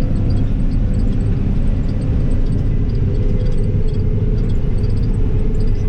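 Combine harvester heard from inside its cab, engine and threshing gear running steadily with the header front engaged while harvesting wheat: a constant low rumble with a faint steady hum above it.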